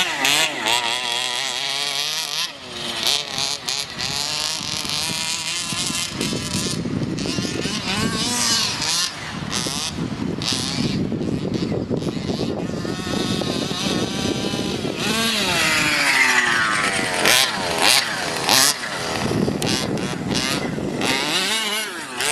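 29cc two-stroke petrol engine of a 1/5-scale RC monster truck, revving up and down as the throttle is worked while it drives. There is a long climbing rev about two-thirds of the way through.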